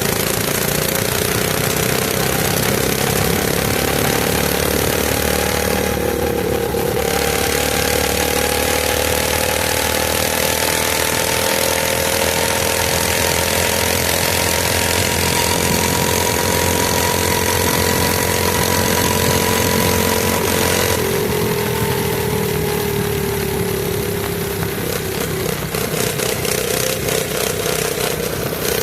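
Mini bike's small engine running steadily under throttle while riding, its pitch climbing slowly for about fifteen seconds, then dropping as the throttle eases off about two-thirds of the way through.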